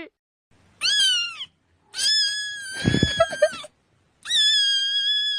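A cat meowing three times: a short rising-and-falling meow, then two long drawn-out high meows, with a brief low thump partway through the second.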